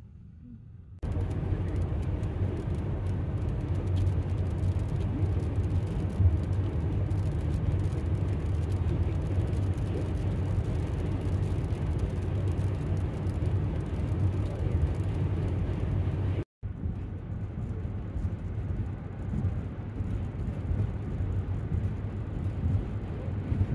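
Steady vehicle running noise, road and engine hum with a strong low drone, from a van on the move. It cuts off abruptly about 16 seconds in and a similar stretch follows.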